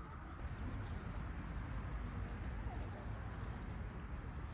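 Faint bird chirps over a steady low rumble of outdoor background noise.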